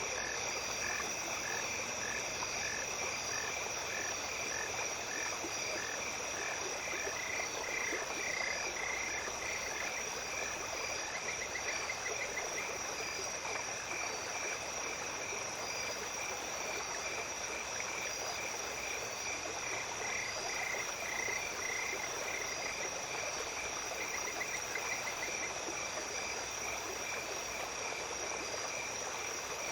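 Small stream flowing at night under a chorus of calling insects: steady high-pitched trills, a call repeated about twice a second in the first few seconds, and runs of quicker chirps about a third of the way in and again about two thirds of the way in.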